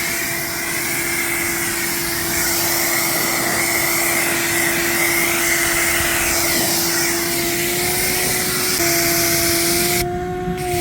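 Ryobi electric pressure washer's motor and pump running with a steady hum, water hissing from the 40-degree nozzle. The hum dips slightly in pitch near the end, and the hiss cuts out briefly just before it.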